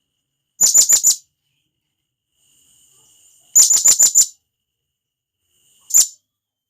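Blue-crowned hanging parrot (serindit) giving sharp, high calls: a quick run of four notes, a run of five about three seconds later, and a single note near the end. This is the loud contact call that serindit use to call others, played here as a lure for wild birds.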